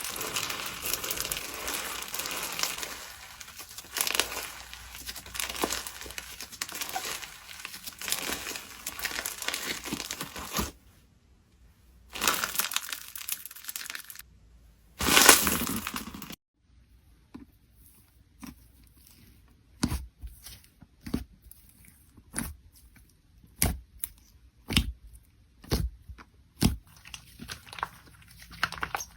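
Slime being squeezed and worked by hand: about ten seconds of dense crinkling, crackling noise, then two louder squishing bursts after short breaks. After that comes a run of separate sharp pops and clicks, one or two a second.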